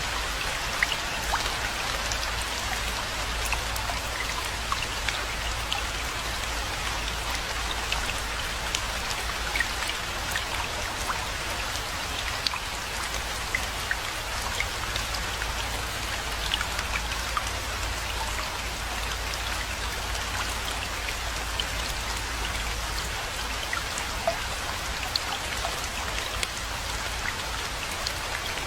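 Steady rainfall, a dense even hiss with many individual drops ticking sharply on nearby surfaces.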